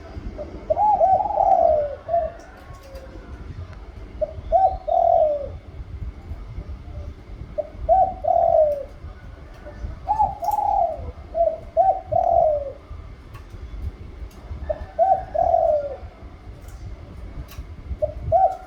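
Spotted dove cooing, repeating a short two- to three-note coo phrase every two to three seconds.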